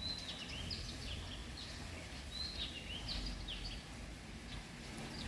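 Small birds chirping: a quick run of short, high chirps, some sliding down in pitch, through the first four seconds and again briefly near the end, over a low steady rumble.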